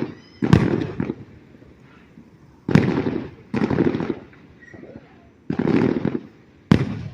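Fireworks going off: five loud booms at uneven gaps of one to two seconds, each dying away in a short rumble.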